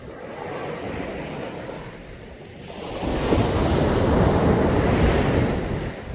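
Caribbean sea waves breaking on a beach: a smaller wash swells and fades in the first two seconds, then a louder wave breaks about three seconds in and subsides near the end.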